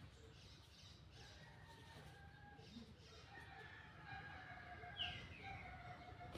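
Faint birds calling in the background, with one short, sharp call falling in pitch about five seconds in.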